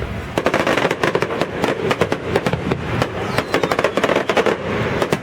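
Fireworks display going off: a rapid run of sharp bangs and crackling reports, several a second, with barely a pause.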